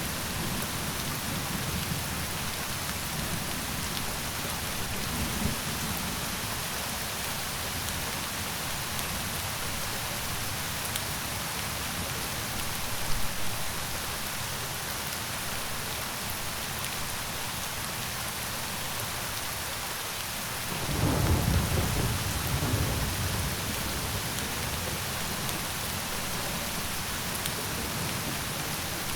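Steady rain hissing on surfaces. A low rumble of thunder rolls in about two-thirds of the way through and lasts a couple of seconds.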